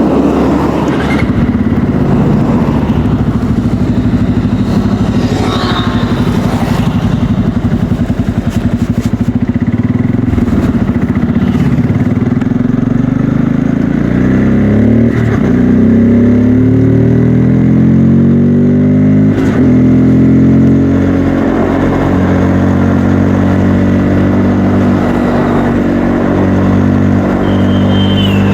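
Bajaj Pulsar N250 motorcycle's single-cylinder engine and exhaust while riding: a steady note at first, then revving up about halfway through, the pitch climbing and dropping back with each gear change, before settling into a steady cruise.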